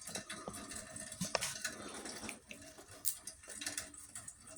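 Rain falling, with scattered drops dripping and ticking at an irregular pace.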